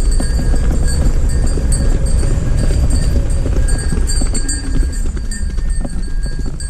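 Hooves of a herd of cattle clopping on the road as it walks past, a dense, irregular clatter, over the steady low rumble of an idling motorcycle engine.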